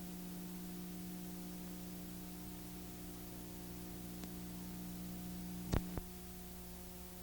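Steady low electrical hum made of several constant tones. About six seconds in come two sharp clicks a quarter of a second apart.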